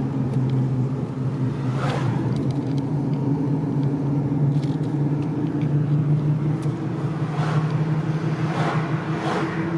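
Car engine and road noise heard from inside the cabin while driving: a steady low hum whose pitch edges up slightly in the second half, with a few soft bumps.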